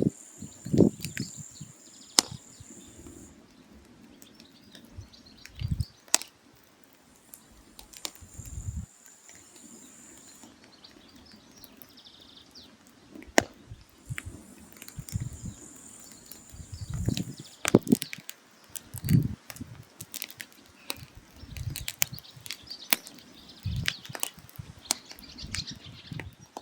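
Firewood burning with irregular sharp crackles and pops, mixed with occasional dull low knocks. A thin high hiss comes and goes three times.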